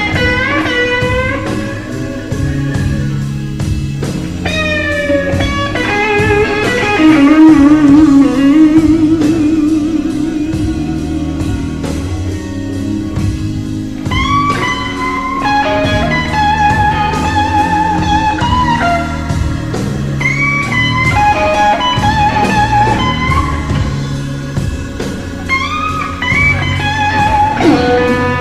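Electric blues guitar playing lead lines full of string bends and wide vibrato, over a bass and drum backing.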